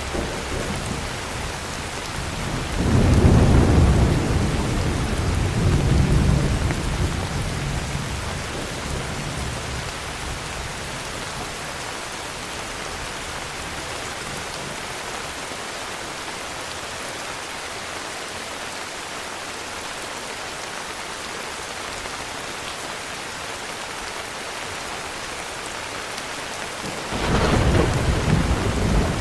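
Heavy rain falling steadily, with rolls of thunder. A deep rumble starts about three seconds in, swells again a few seconds later and dies away, and another rumble begins near the end.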